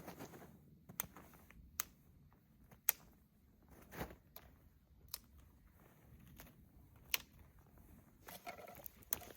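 Dry twigs and small branches being snapped and handled: a string of sharp, irregular snaps with soft rustling between them.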